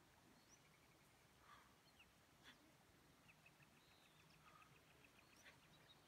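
Near silence: faint outdoor quiet with small bird chirps, including a rapid run of short ticking calls partway through.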